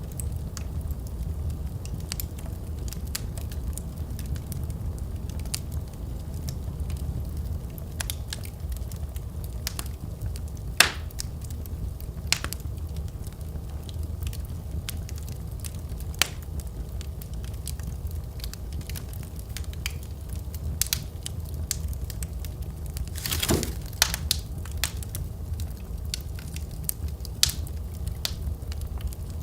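Wood fire crackling in a fireplace: a steady low rumble of burning with scattered snaps and pops throughout. The sharpest single pop comes about a third of the way in, and a quick burst of pops follows later on.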